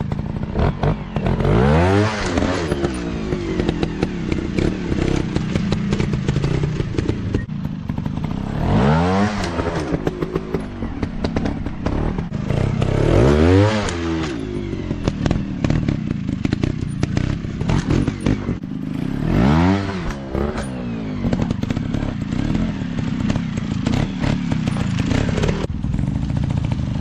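Dirt bike engine revving up and falling back repeatedly, a rise and fall about every five seconds over a steady engine drone, with clattering and knocks throughout.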